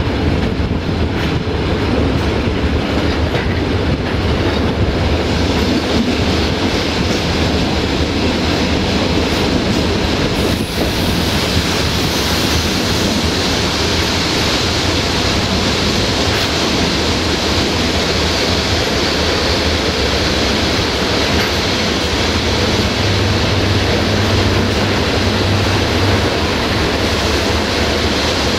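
Passenger train rolling slowly into a station, its wheels running and clattering over the rails. About a third of the way in, a brighter hiss and wheel squeal sets in and carries on as the train brakes alongside the platform.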